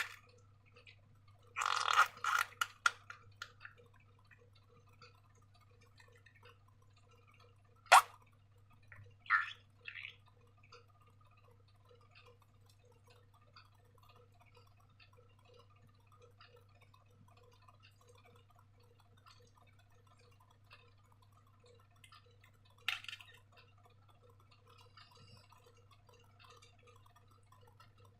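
Slime being squeezed and stretched by hand: scattered wet, sticky clicks and squelches, with a cluster about two seconds in, a single sharp snap about eight seconds in and another burst near the end, over a faint steady hum and faint ticking.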